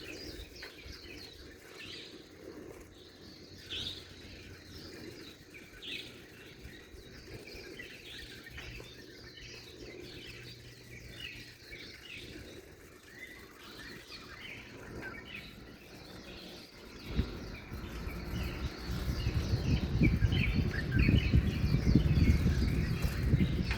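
Many birds chirping and singing in quick short calls. About two-thirds of the way in, a louder low rumbling noise comes in and stays, covering the lower part of the sound.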